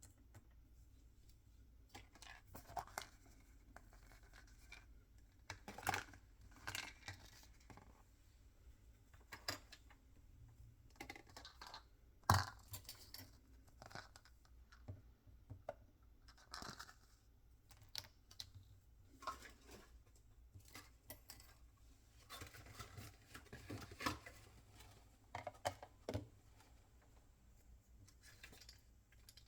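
Hands opening and handling toy packaging and small plastic pieces: irregular rustling and tearing, with scattered small clicks and taps. The sharpest click comes about twelve seconds in.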